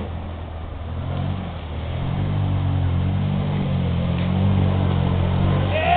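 A side-by-side utility vehicle's engine running steadily, getting a little louder and slightly higher in pitch about two seconds in.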